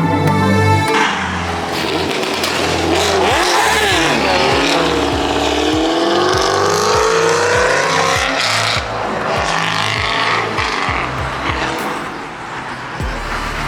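A car accelerating hard, its engine revving with a slowly rising pitch, with tyre squeal typical of a burnout or hard launch.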